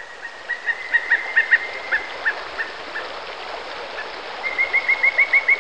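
A bird calling in two runs of short, clear chirps over a soft background hiss: the first run slows and fades through the first half, and a second, quicker and louder run starts near the end.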